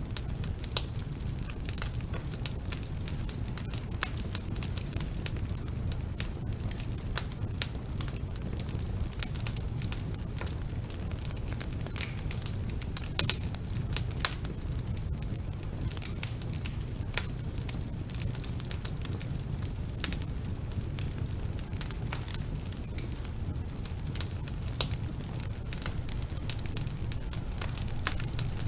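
Wood fire burning in a fireplace: a steady low rumble of the flames with frequent sharp crackles and pops, a few of them louder.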